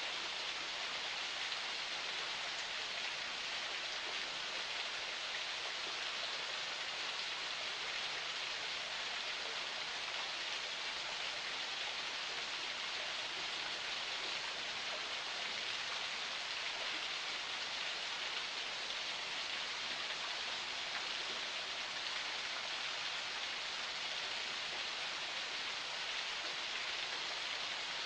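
Forest spring water flowing, a steady, even rushing hiss without pauses.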